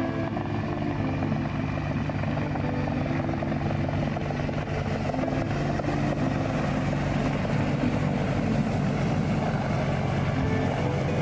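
Helicopter running steadily: constant rotor and engine noise with a low steady hum.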